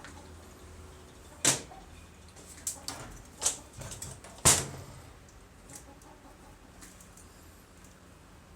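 About five sharp clicks and knocks of tools and metal parts being handled, spread over a few seconds with the loudest about halfway through, against a quiet background.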